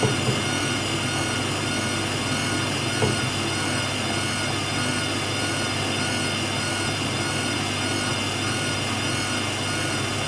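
Hoover WDYNS654D slim washer-dryer spinning its drum at a steady speed: an even motor whine over a low hum, with a faint knock or two.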